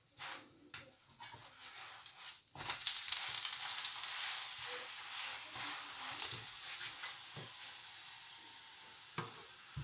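Paratha sizzling in hot oil in a frying pan, with a few clicks of a metal spatula against the pan in the first seconds. About two and a half seconds in, the paratha is turned over and the sizzle swells, then runs on steadily.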